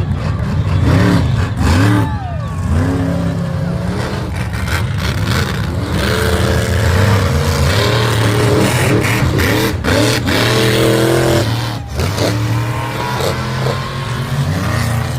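Monster truck engines revving and running loudly, the pitch rising and falling as the throttle opens and closes, over a noisy arena background.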